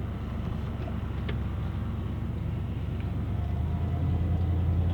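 An engine running with a steady low hum, louder from about three and a half seconds in.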